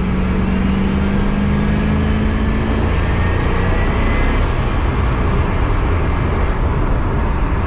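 Turbocharged 5.3 L LS V8 and road noise in the cabin of a C4 Corvette while it drives on. An engine note holds steady for about three seconds and then fades into the general drone, and a thin high whine rises from about three seconds in for a second and a half.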